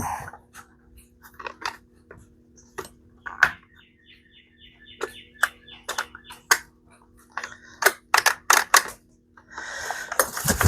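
Scattered clicks and knocks of a Poulan chainsaw's plastic housing and parts being handled and screwed together, with a quick run of ticks about halfway through. Near the end the recoil starter cord is pulled, a rasping whir that pulls easily without the engine starting.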